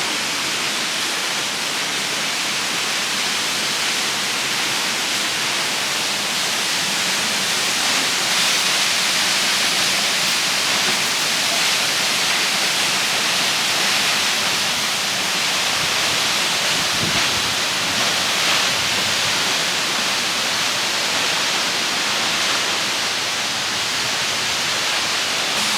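Multnomah Falls' water rushing as a steady, even hiss of falling water.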